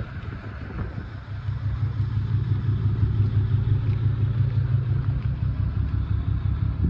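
A motor vehicle's engine running close by: a steady low, rapidly pulsing rumble that grows louder about a second and a half in and then holds.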